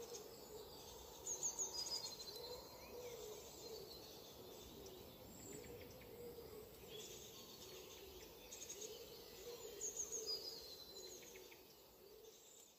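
Faint calls of small birds, short chirps and trills that come in two louder spells, about a second in and again near ten seconds, over a steady background of outdoor noise with a wavering low hum.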